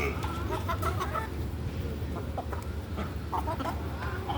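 Chickens clucking in short, scattered calls, over a low steady rumble.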